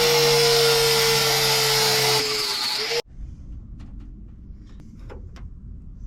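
A power tool runs steadily with a held hum and a loud hiss, then stops abruptly about halfway through. A few light clicks and knocks follow in the quiet.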